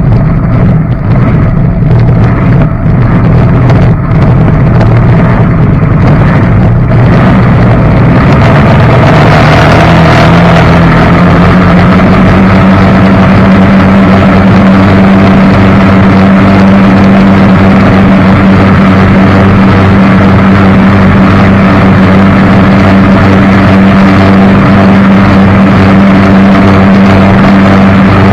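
A jet boat's engine running loud on the water, choppy at first, then rising in pitch from about eight seconds in and holding a steady high-speed drone.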